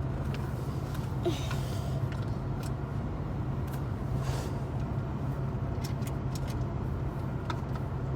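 Steady low hum inside a parked car with its engine and air conditioning running, with a few light clicks scattered through.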